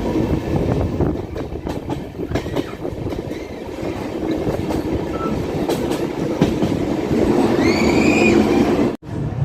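A passenger train running along the track, wheels clattering over the rail joints with a steady low hum underneath. A brief high-pitched squeal rises and falls near the end, and the sound then cuts off abruptly.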